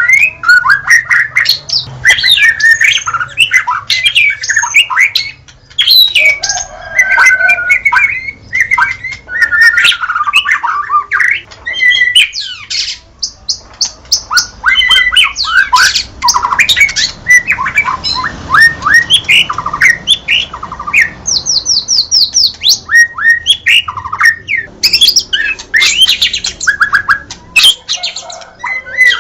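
White-rumped shama (murai batu) singing a loud, varied song of whistles, harsh chatters and rapid runs of repeated notes, with short pauses between phrases.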